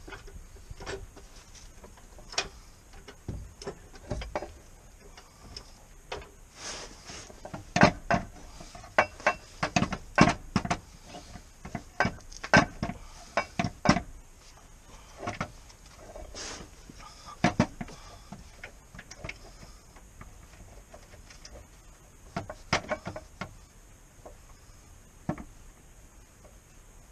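Irregular knocks, clicks and clatters of tools and metal parts being handled, busiest in the middle and again briefly later.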